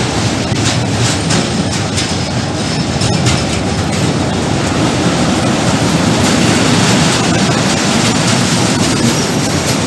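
A train passing close by: a loud, steady rolling rumble of wagons, with faint clicks of wheels over the rail joints.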